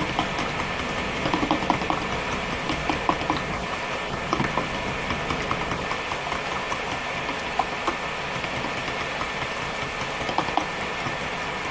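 Eggs being beaten in a bowl, a utensil clinking against the bowl in irregular little runs, over the steady whir of a portable stovetop burner's fan.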